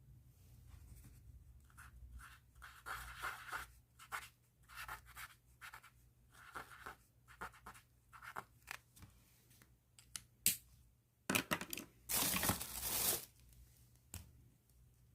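Pen tip scratching across paper in a run of short strokes, writing or coloring, with a louder, longer stretch of scratching near the end.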